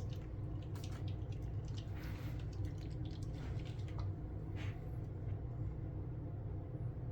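Faint scattered clicks and light handling noises from paint jars and brushes on a hobby bench, over a steady low hum.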